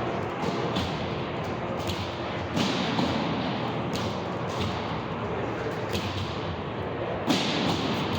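A few sharp thuds and knocks, the loudest about seven seconds in, over a steady hum of crowd and game noise, as from play during a ball game.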